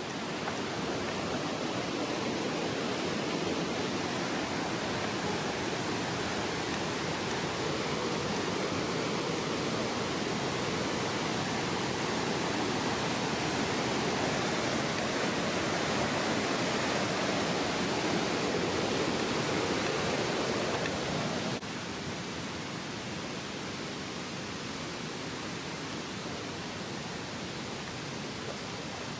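Steady rushing roar of a nearby waterfall. It drops abruptly to a quieter, thinner rush about two-thirds of the way through.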